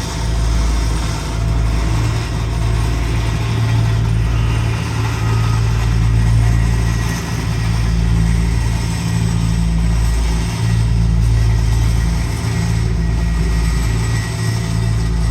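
Heavy asphalt-paving equipment's diesel engine running steadily, a deep continuous hum.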